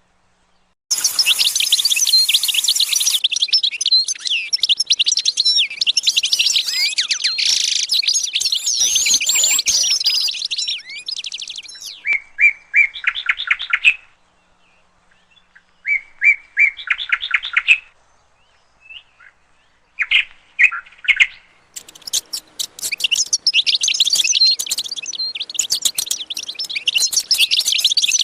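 Small cage birds chirping and singing: dense, overlapping high twittering, then a stretch of a few short, separate trills, then dense twittering again near the end.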